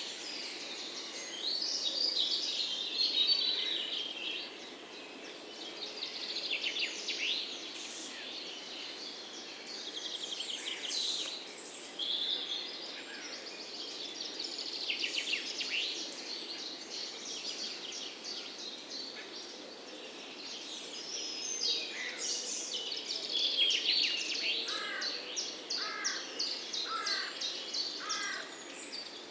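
Several songbirds chirping and singing at once, with quick overlapping trills and chirps throughout and a run of about five short repeated notes, a second apart, near the end, over a steady outdoor background hiss.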